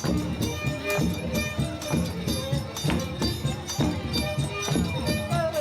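Reisado folk music: a steady percussion beat of several strokes a second, with a melody carried over it.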